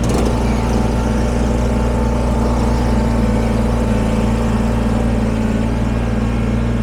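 Kubota BX23S sub-compact tractor's three-cylinder diesel engine running steadily at an even speed, with a brief knock at the very start.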